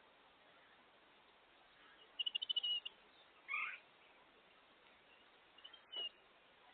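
Wild songbirds calling: a quick trill of high notes, then a single call sliding downward, then a few short chirps near the end.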